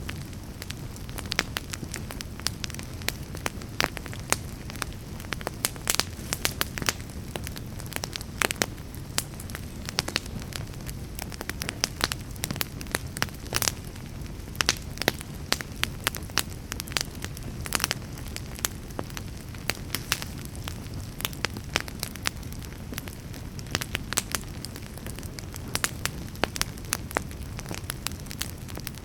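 Wood fire crackling and popping: many irregular sharp pops and snaps over a steady low rumble of the flames.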